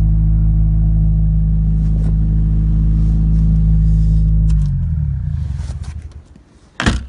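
Subaru Legacy boxer engine idling steadily. About two-thirds of the way in it is switched off, and its pitch drops as it winds down and stops. A single short, sharp noise follows near the end.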